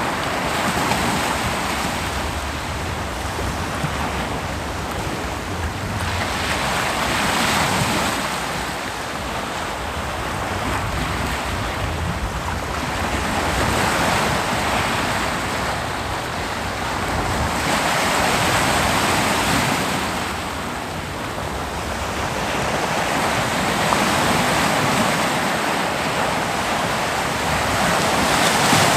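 Ocean waves breaking on a beach, each wash of surf swelling and fading about every five or six seconds over a steady hiss of surf.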